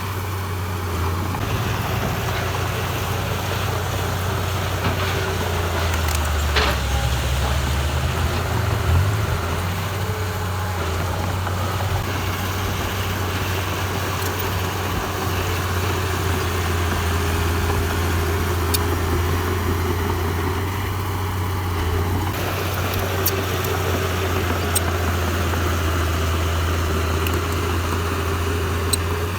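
Heavy diesel engine of an earthmoving machine running steadily with a deep hum. Its note shifts and swells briefly between about six and nine seconds in. A few sharp ticks come later.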